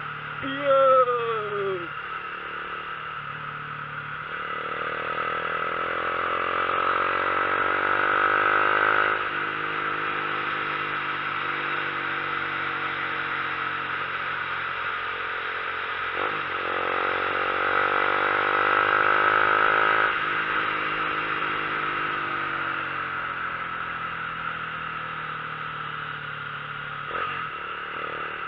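Vehicle engine pulling up a mountain road under steady road and wind noise. The revs climb slowly for several seconds and drop suddenly, twice: once about nine seconds in and again about twenty seconds in. A shout comes near the start.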